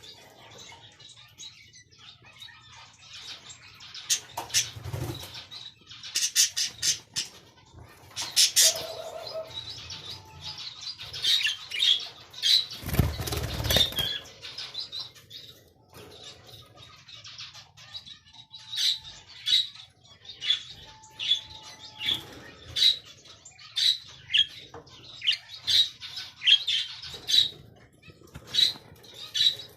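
Cockatiels in a cage chirping, short repeated calls that come about once a second later on, with bursts of wing flapping and a loud flurry of flapping about halfway through.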